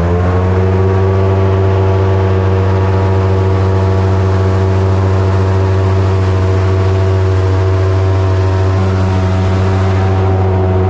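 Boat engine running loud and steady under way, its pitch settling after revving up at the start.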